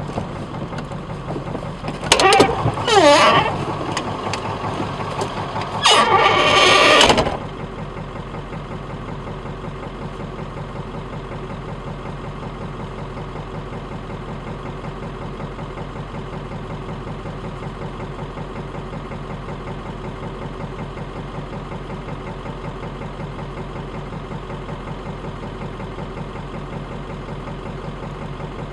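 Vehicle engine idling steadily with an even pulse, heard from inside the cab. Two loud, brief sounds stand out over it in the first seven seconds or so, the first with a sliding pitch.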